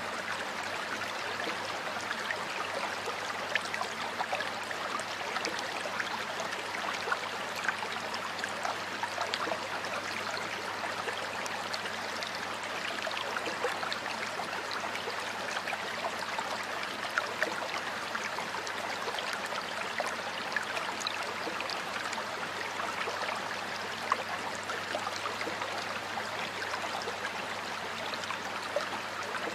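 Stream water flowing and burbling over rocks: a steady rushing wash with many small splashes and droplet ticks scattered through it.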